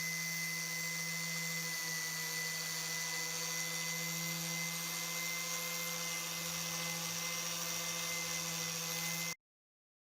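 Electric power tool running steadily at a constant pitch with a hiss on top, cutting off abruptly near the end.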